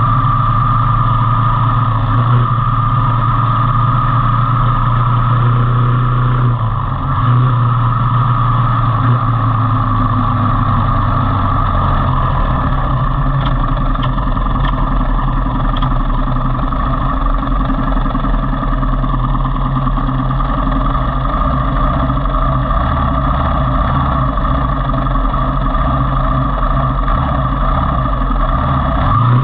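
Motorcycle engine running steadily on the move, with a brief dip about seven seconds in and a lower engine note from about twelve seconds on.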